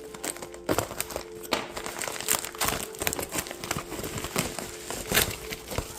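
Packaging crinkling and rustling in irregular crackles as a mailed toy is unwrapped by hand.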